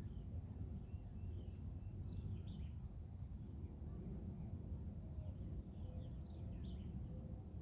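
Songbirds chirping, short scattered calls and quick glides, over a steady low rumble of background noise that is the loudest part of the sound.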